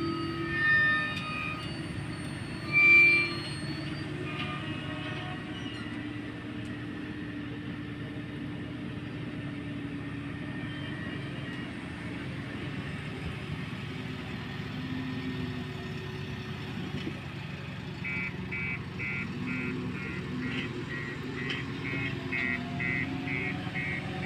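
A vehicle running steadily, with two short horn toots in the first few seconds. A quick, evenly repeated series of high beeping tones starts about three quarters of the way through.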